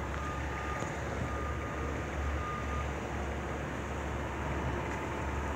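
Low, steady rumble from an intermodal freight train of double-stack container cars. A thin high tone sounds in three short stretches during the first three seconds.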